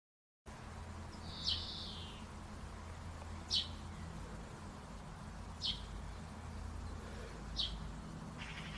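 A bird calling: four short, sharp, high-pitched calls about two seconds apart, the first with a brief buzzy trail, over a steady low hum.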